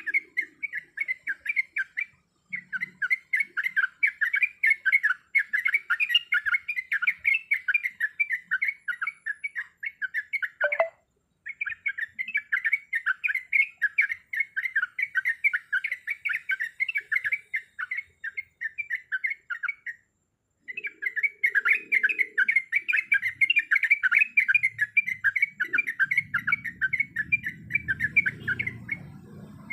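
Yellow-vented bulbul (trucuk) song: fast, chattering runs of short notes, many a second, broken by three brief silences. A faint low rumble comes in near the end.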